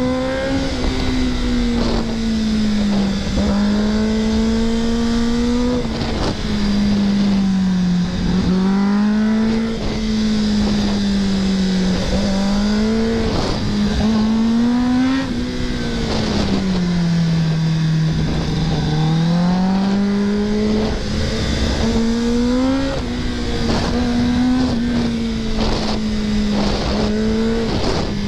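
2024 Kawasaki ZX-10R's inline-four engine on the ride, its pitch repeatedly climbing and dropping every few seconds as the rider opens and closes the throttle and changes gear. Wind noise runs underneath.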